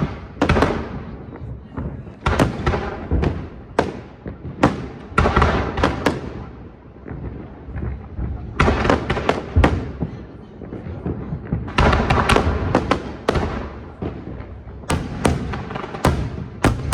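Aerial fireworks shells bursting in clusters of sharp bangs, each trailing into an echo, with brief lulls between salvos about eight and fourteen seconds in.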